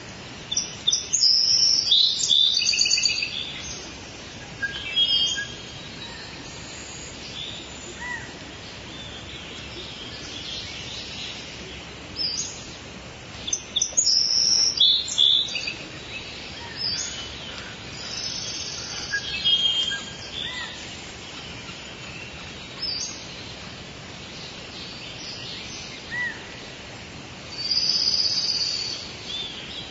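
Birds chirping and calling in short bursts every few seconds over a steady background hiss.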